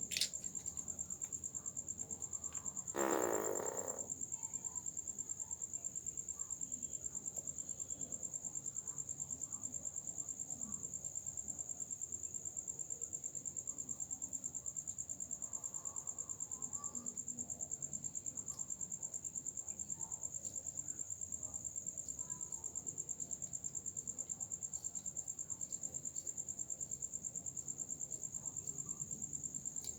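Cricket trilling steadily, one high, rapidly pulsing note that does not change. About three seconds in, a louder rushing sound lasts roughly a second.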